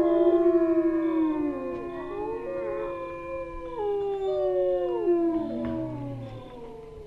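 A pack of wolves howling in chorus: several long, overlapping howls at different pitches, mostly sliding down, fading away toward the end.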